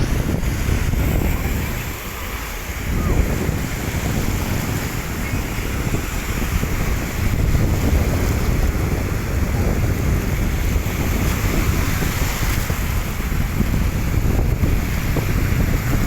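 Wind buffeting the microphone over a steady wash of waves.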